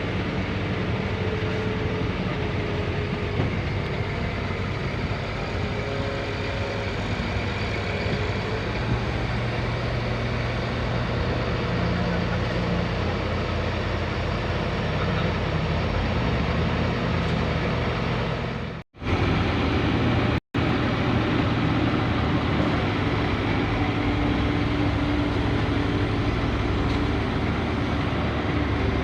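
Heavy diesel machinery, the excavator and dump truck, running steadily. The sound cuts out briefly twice about two-thirds of the way through.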